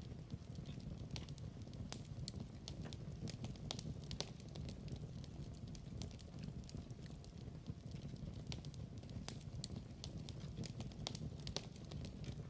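Wood fire crackling in a fireplace: a steady low rumble with many irregular sharp pops and snaps.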